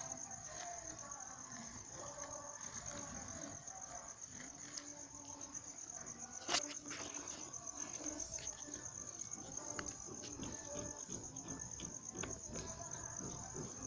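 Crickets trilling steadily at a high pitch, with scattered faint crackles and one sharp crack about six and a half seconds in.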